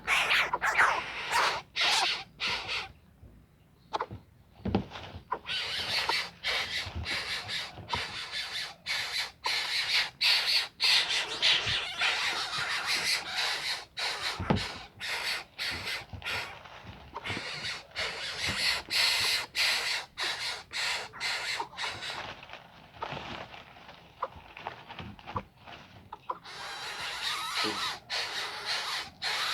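A young captive bird giving repeated harsh, raspy calls in short bursts, with a quiet gap about three to five seconds in.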